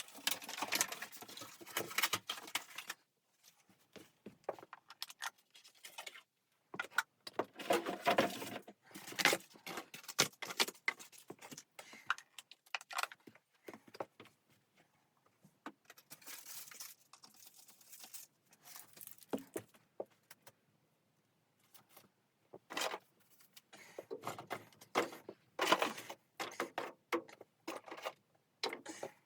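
Irregular clinking and rustling of things being handled, coming in clusters with short pauses between them.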